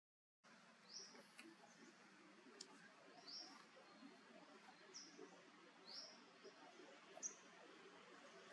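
Quiet forest background with a bird giving short, high, rising chirps about once a second. The sound drops out completely for the first half second.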